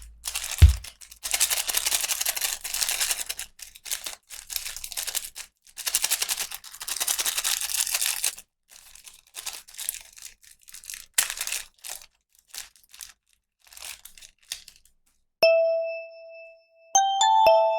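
Plastic packaging being torn open and crinkled, in long rustling stretches. Near the end a single ding rings out, followed by a few short chime notes.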